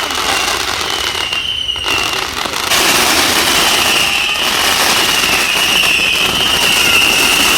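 Fireworks going off: dense, continuous crackling with a steady high whistle running through it, dipping briefly and then growing louder about three seconds in.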